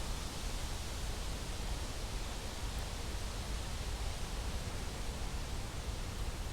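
Steady rushing noise of wind on the microphone, with low rumbling buffets.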